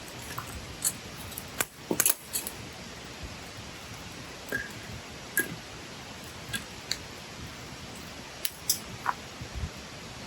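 Wood campfire crackling: irregular sharp pops and snaps over a steady soft hiss, with a quick cluster of louder pops about two seconds in.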